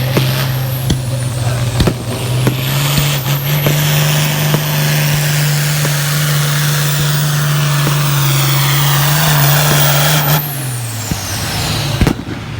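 Farm stock class pulling tractor's diesel engine running flat out under load during a pull, a steady loud note that rises slightly early on and holds. About ten seconds in the throttle comes off: the engine note drops and a high whistle winds down.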